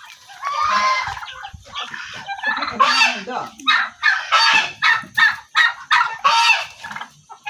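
Turkeys calling: one longer wavering call, then a rapid string of loud, short calls.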